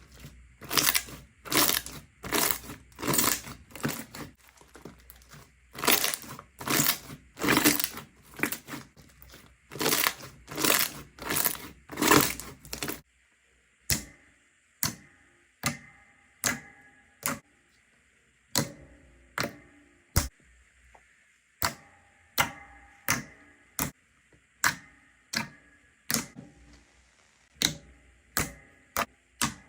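Slime being squeezed and pressed by hand, making a rhythmic run of crackling pops about two a second. About thirteen seconds in it changes to sharper, sparser clicks about one a second, over a faint steady high tone.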